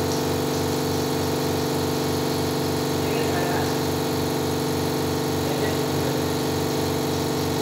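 A motor or engine running steadily: a constant hum with a low beat pulsing a few times a second.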